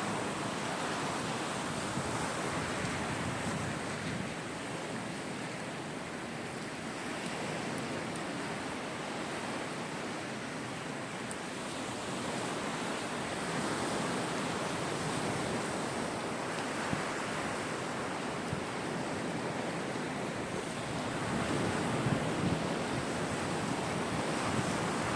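Sea waves breaking and washing on a shore, the surf swelling and easing over several seconds, with wind noise on the microphone. A couple of brief sharp cracks stand out near the end.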